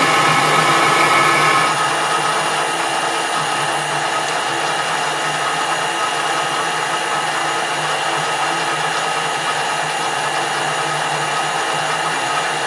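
Metal lathe running under power while screw-cutting a shallow thread, taking a light 2.5 thou cut: a steady whine and hum from the motor and gear train, dropping a little in level about two seconds in.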